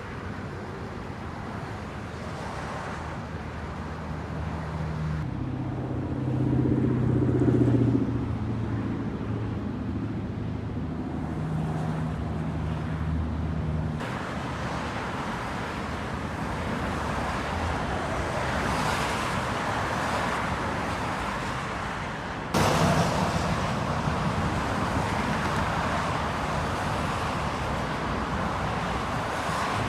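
Freeway traffic noise, with vehicles running past. A heavy engine's low hum builds to its loudest about seven to eight seconds in and fades by about fourteen seconds. The sound changes suddenly about fourteen and twenty-two seconds in.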